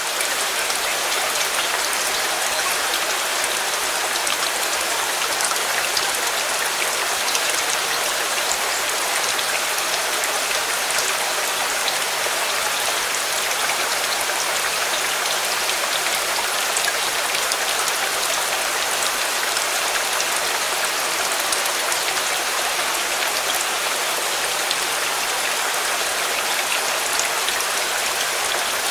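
Steady rain falling, a dense even patter of many small drop ticks that holds level throughout.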